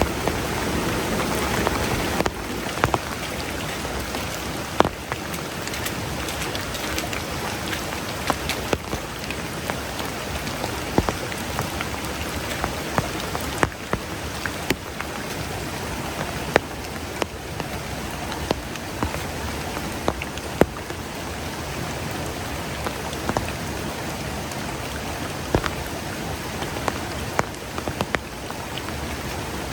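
Steady heavy rain, with many individual drops striking a surface close by as sharp, irregular taps over the constant hiss.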